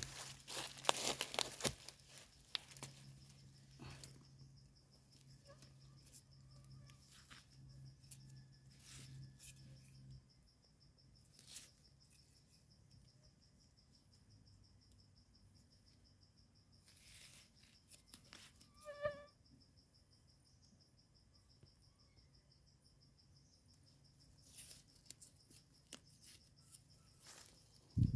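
Faint garden ambience: an insect's steady high trill runs throughout, with scattered rustles and clicks of handling in the undergrowth and a low hum that stops about ten seconds in. A short bird call comes about two-thirds of the way through, and a sharp knock at the very end.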